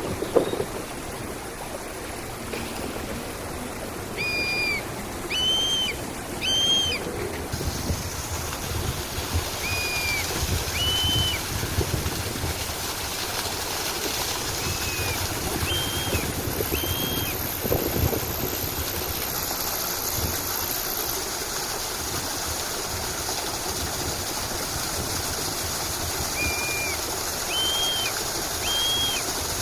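Steady rush of flowing water, with a bird calling over it in short clear whistled notes, often in pairs, repeated at intervals.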